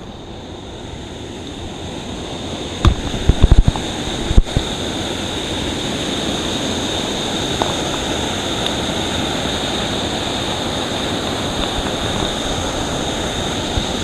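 Rushing water of a waterfall, growing louder over the first few seconds and then steady, with a few loud thumps about three to four seconds in.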